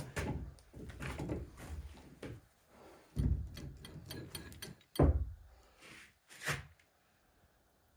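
Metal knocks and thuds from transmission parts being handled and worked into the gear case. Three heavier thumps stand out, about three, five and six and a half seconds in, the loudest at five.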